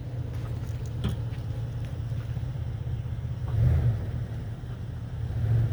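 Truck engine running with a steady low rumble, swelling briefly twice, about three and a half seconds in and again near the end.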